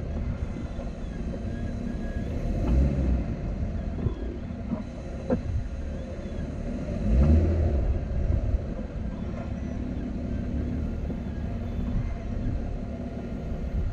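Jeep Wrangler JL rolling slowly with its engine running low, and a few sharp clicks at irregular intervals above the rumble. This is the clicking that comes up when the wheels are turned or the Jeep creeps forward or back; the owner cannot tell whether it comes from the front or the rear.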